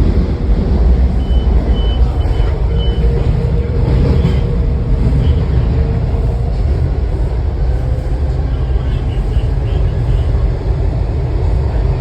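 Washington Metro railcar running at speed through a tunnel, heard from inside the car: a loud, steady low rumble with a faint steady whine. A few faint high beeps come about a second in.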